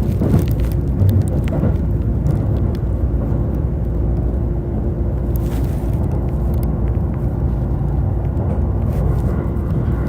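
E531 series electric train running along the line: a steady low rumble of wheels on rail with a constant hum over it and a few faint clicks.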